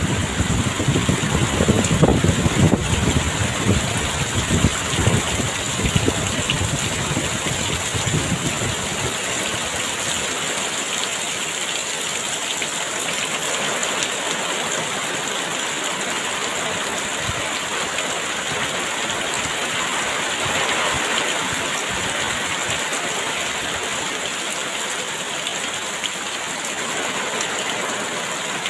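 Very heavy rain falling in a dense, steady hiss. Low gusts of strong wind rumble under it for the first eight seconds or so, then die away, leaving the rain.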